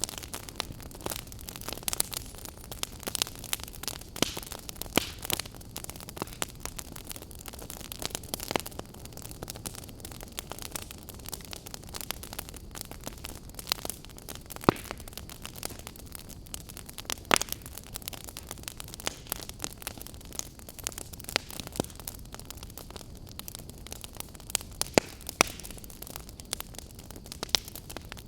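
Wood campfire crackling: a steady low hiss with irregular sharp snaps and pops, a few of them louder.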